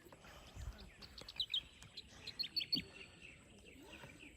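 Small birds chirping: quick bunches of short, high chirps from about a second in to the middle.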